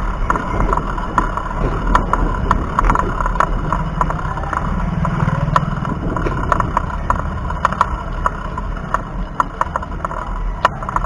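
Wind rumbling on a chest-mounted action camera's microphone during a bicycle ride, with frequent short rattling clicks from the bike over the road surface.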